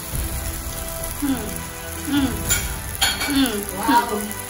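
Food frying in a pan, a steady sizzle, with a voice rising and falling over it in the second half.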